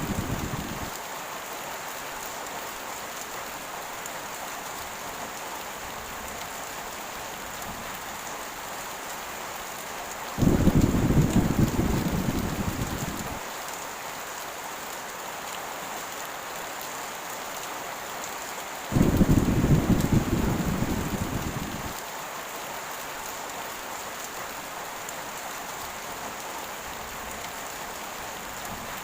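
Heavy rain falling steadily, with rolls of thunder. A rumble dies away in the first second, then two more break suddenly about ten and nineteen seconds in. Each of those two fades out over about three seconds.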